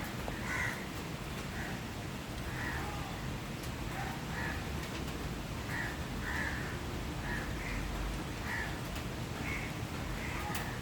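Birds calling in short repeated calls, about one a second, over the steady hiss of falling rain.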